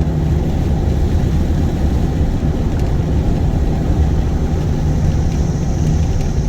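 Steady low rumble of a car's engine and tyres on the road, heard from inside the moving vehicle.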